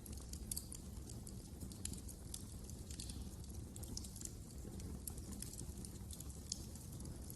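Wood fire crackling: irregular small pops and snaps over a steady low rumble of burning logs.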